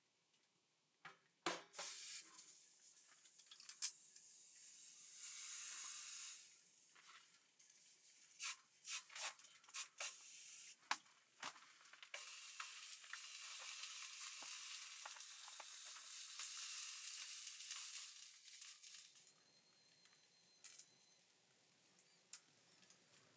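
A steady, quiet, high hiss with many sharp clicks and light knocks scattered through it, rising about two seconds in and dying away a few seconds before the end.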